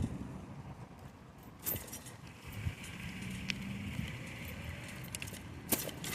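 Bicycle riding noise: a low rumble of wind and tyres with a few sharp clicks and rattles from the bike, one just under two seconds in and the loudest near the end.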